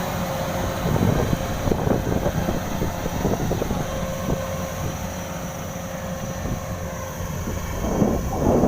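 Kubota DC93 combine harvester running steadily in a wet rice field, with wind buffeting the microphone.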